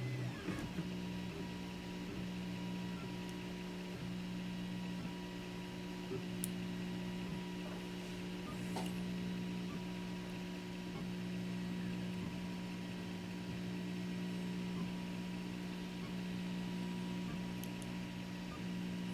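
Zonestar P802M 3D printer running, its stepper motors giving a steady hum of several held tones that shift slightly every few seconds, with a couple of faint ticks.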